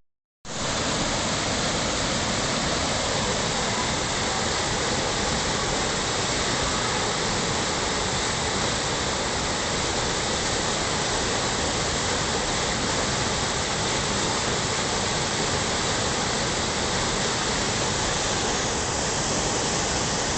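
Creek whitewater rushing steadily through rapids, a constant even rush of water. The sound starts after a brief gap of silence right at the beginning.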